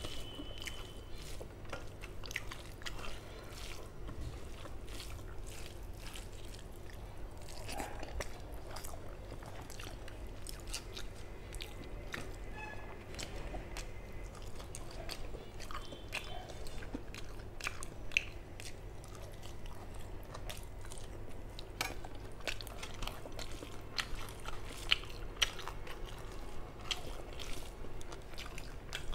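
Close-miked eating sounds of rice and fish curry eaten by hand: chewing and biting, with many short wet clicks of the mouth throughout.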